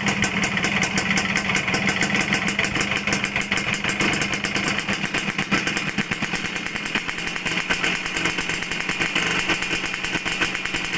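Suzuki Satria single-cylinder two-stroke engine revved and held at raised revs, its exhaust blatting through a stock silencer that has been gutted.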